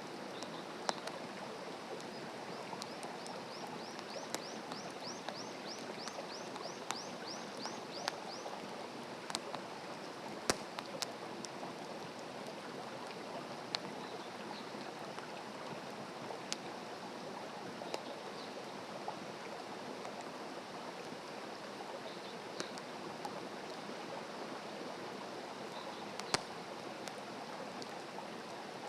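Wood campfire burning with a steady crackle and scattered sharp pops. A bird gives a quick run of repeated high chirps from about three to eight seconds in.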